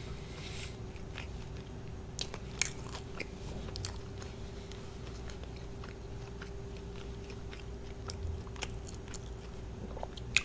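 Close-miked chewing and biting of food, with scattered wet mouth clicks and a few sharper crunches over a faint steady hum.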